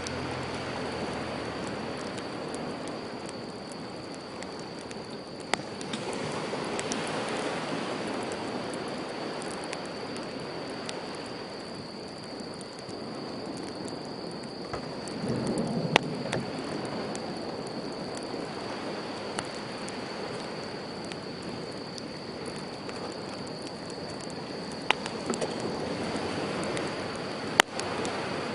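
Sea waves washing onto a shore in slow swells, with a wood campfire crackling and giving a few sharp pops.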